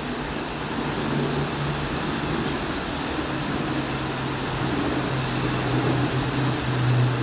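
Steady rain falling, an even hiss, with a low hum underneath that grows louder near the end.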